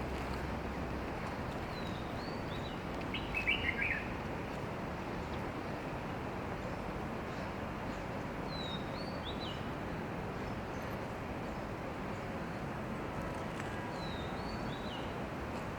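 A bird gives a short, high call three times, about six seconds apart, with a brief burst of chirps a few seconds in, over a steady hiss of outdoor background noise.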